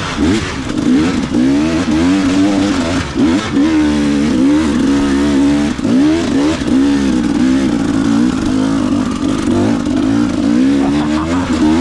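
KTM 300 two-stroke dirt bike engine revving hard on a hill climb. Its pitch rises and falls over and over as the throttle is worked.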